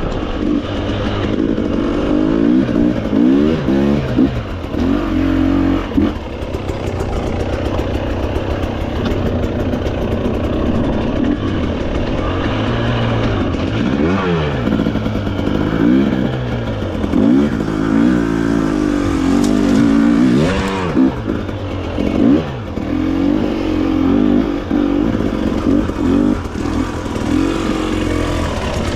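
Off-road motorcycle engine running under changing throttle as it is ridden, its pitch rising and falling again and again.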